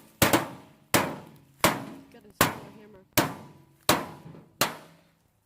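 Hammer blows striking a microwave oven's metal casing: seven evenly spaced strikes, about one every three-quarters of a second, each ringing briefly as it dies away.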